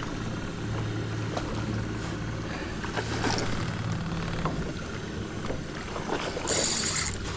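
Jon boat's motor running low and steady over water noise, with scattered knocks. Near the end there is a brief high-pitched buzz.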